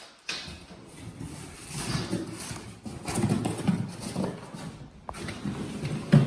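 Irregular footsteps with knocks and scuffs, someone walking on a hard floor, with a sharp click about five seconds in.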